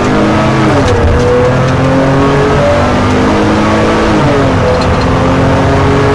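Motor vehicle engines revving and running hard during a high-speed pursuit, with several engine notes rising and falling in pitch over one another.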